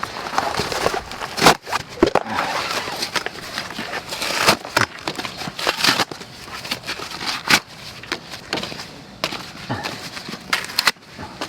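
Irregular crackling with sharp snaps and knocks, from kindling and firewood in a campfire pit as the fire is being lit.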